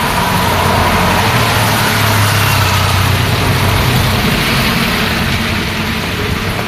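Road traffic in the rain: a heavy vehicle's engine running close by, its low hum swelling in the middle and easing off, over a steady wash of rain and passing traffic.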